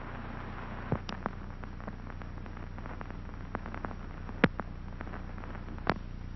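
Steady hiss and low hum with a handful of scattered clicks and pops, the loudest about four and a half seconds in: the background noise of an old 1950s film soundtrack between commercials.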